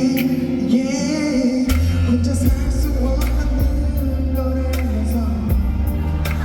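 Live pop music from a concert sound system: a singer's held, wavering note over the band, then the bass and drums come in fully about two seconds in, with a regular beat of cymbal hits.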